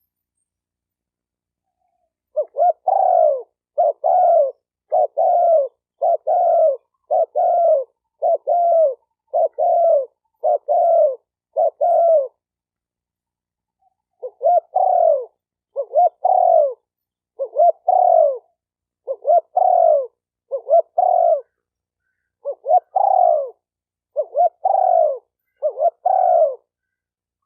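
Spotted dove cooing in a clean recording of its lure call for rousing other doves. After a couple of seconds of silence come two runs of short, repeated coos, about one a second, with a pause of about two seconds between them.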